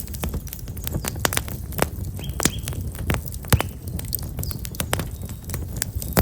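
Wood fire of black locust logs crackling, with many irregular sharp pops and snaps over a low rumble of the burning. Small birds chirp briefly a couple of times.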